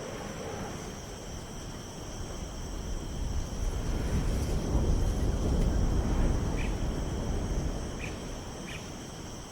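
Outdoor field ambience: a low rumble that swells about three seconds in and fades near the end, over faint steady high-pitched tones, with a few short chirps late on.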